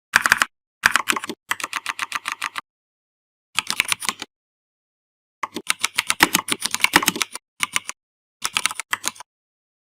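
Typing on a computer keyboard: quick runs of key clicks in five bursts, with short stretches of dead silence between them.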